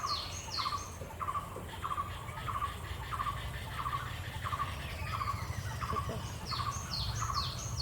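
Birds calling: a short buzzy note repeats about every 0.6 s. Runs of quick, high, downward-sliding whistles come near the start and again near the end, over a steady low background rumble.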